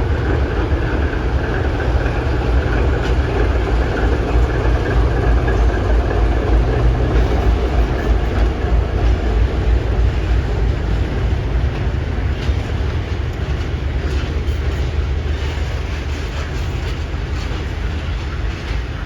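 Train passing close by: a loud, steady low rumble of the locomotive and running gear with broad rolling noise over it, easing off gradually over the last several seconds.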